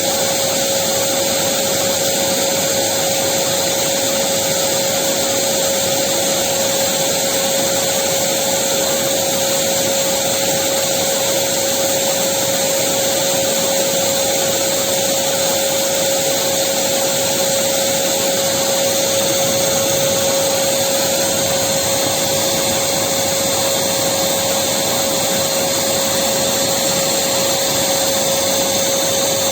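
Electric vacuum cleaner running steadily, a continuous rushing hiss of air over a steady motor hum with one strong tone, unchanging throughout.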